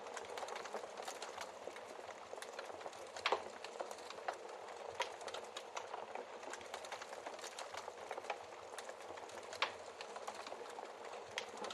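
Wood fire crackling steadily over a soft hiss, with many small snaps and two louder pops from the burning logs, about three seconds in and near the end.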